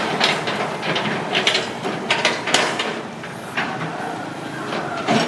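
Hitachi ZX210 long-reach excavator's diesel engine running, with irregular clanks and rattles from the machine as it works.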